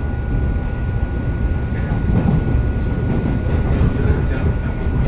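Steady low rumble of a moving passenger train, heard from inside the carriage as it runs along the rails, with a faint steady whine above it.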